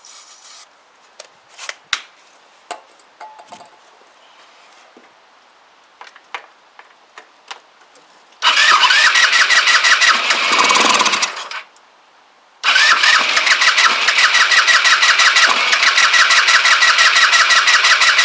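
Electric starter cranking a Kymco Agility 125 scooter's single-cylinder four-stroke engine, with a few small clicks and knocks first, then two long bursts of fast, even cranking with a short pause between. The engine is running on a squirt of starting fluid and catches briefly, which the owner takes to mean the no-start is fuel-related.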